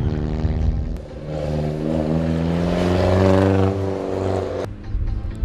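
Mini Cooper's engine accelerating on the track, its note rising steadily, then cut off abruptly near the end.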